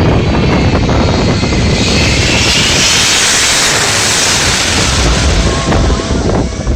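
Japan Airlines jet airliner passing low overhead on its landing approach: its engine noise swells about a second and a half in to a loud high hiss with a whine that falls in pitch, then fades near the end. Wind buffets the microphone throughout.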